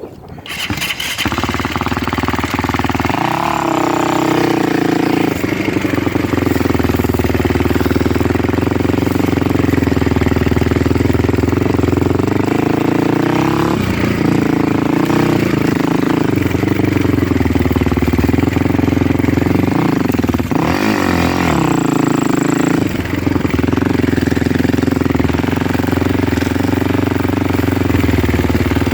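Motor vehicle engine running steadily while driving, its pitch rising and falling a few times as it speeds up and slows down.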